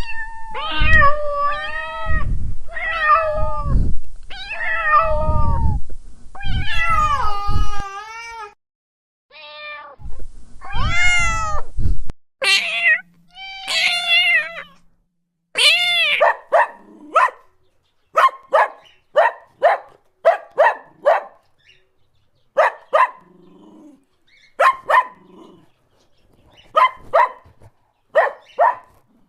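Cats meowing: a string of long, drawn-out meows, then from about twelve seconds in many short, high mews in quick groups of two and three.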